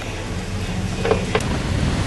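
Steady blizzard wind noise over a low vehicle engine hum, with two quick knocks about a second in.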